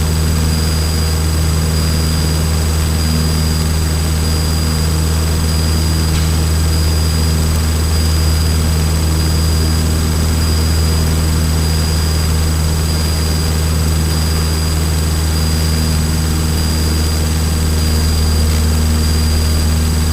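Cessna 152's four-cylinder piston engine and propeller running steadily at full climb power, an even, unchanging drone.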